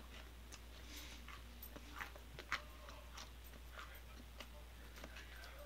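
Faint crunching of peanut butter popcorn being chewed: irregular crisp crunches, one sharper crunch about two and a half seconds in. A steady low hum runs underneath.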